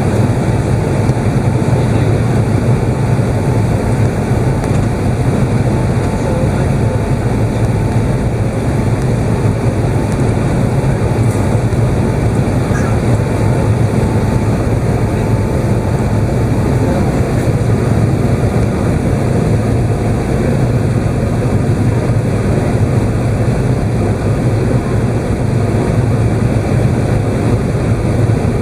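Steady, loud cabin noise inside an Emirates Airbus A380: a low rumble of engines and airflow, with a faint steady tone that fades out about two-thirds of the way through.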